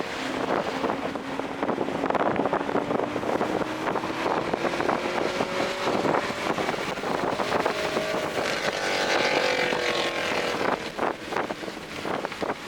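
Toyota GR Corolla's turbocharged 1.6-litre three-cylinder engine pulling on track, its note climbing slowly for several seconds and easing off near the end, under heavy wind buffeting on the microphone.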